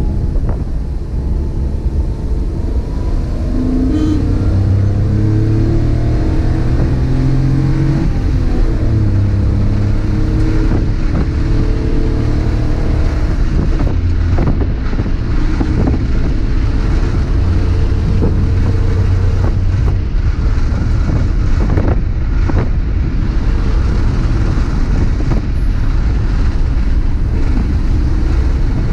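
Maruti Suzuki Alto's small three-cylinder petrol engine, heard from inside the cabin while the car is driven. The engine note climbs in pitch through the first several seconds and drops at a gear change, then runs on under steady road and tyre rumble. A few sharp knocks come in the second half.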